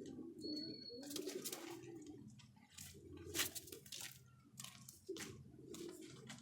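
Domestic pigeons cooing, with scattered sharp clicks and knocks; the loudest knock comes about three and a half seconds in.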